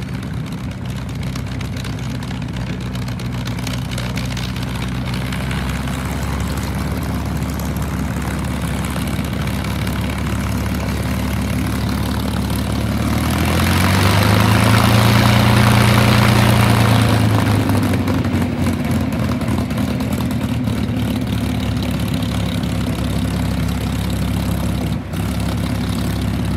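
P-51D Mustang's Packard Merlin V12 engine and propeller running steadily. About halfway through, the engine swells louder and a little higher in pitch for a few seconds, then settles back to its earlier steady note.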